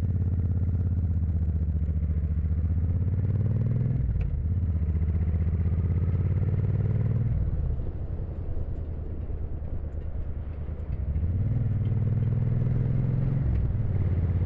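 Motorcycle engine running under way, picked up by a phone microphone inside the rider's helmet. Its pitch dips and recovers several times, and it goes quieter for a few seconds a little past the middle.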